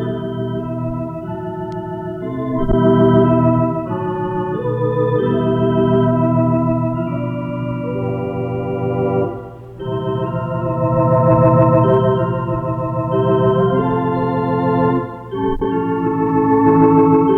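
Instrumental music of held, sustained keyboard chords with no singing, the chords changing every second or two and briefly dropping out twice.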